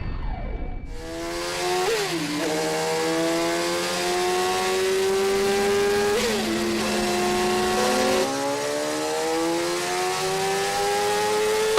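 Sport motorcycle engine accelerating hard through the gears: the revs climb, drop back sharply at an upshift about two seconds in and again about six seconds in, then climb once more.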